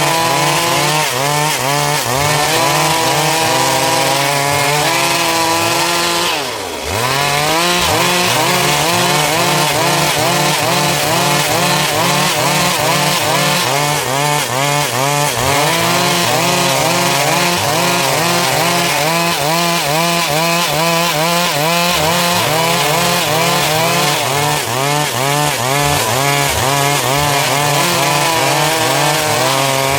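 A Stihl MS 382 two-stroke chainsaw running at high revs while cutting through dry wood, its pitch wavering as the load changes. About six and a half seconds in, the revs dip briefly, then climb back.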